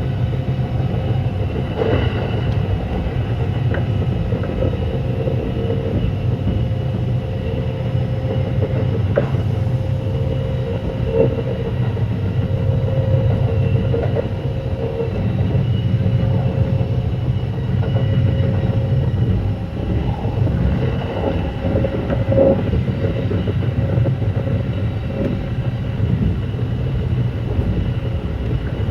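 Kintetsu 9200 series electric multiple unit running at speed, heard inside the car: a steady low rumble of wheels and running gear with a faint steady hum, and a few scattered knocks from the wheels.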